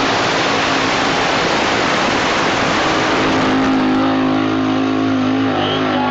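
Ford F250 pickup truck engine running loud at high revs, pulling a weight sled. After about three and a half seconds the roar thins and steadier pitched tones come through.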